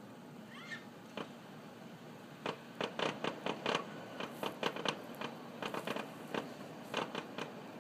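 Distant aerial fireworks: a rapid, irregular series of pops and crackles from bursting shells, starting about two and a half seconds in.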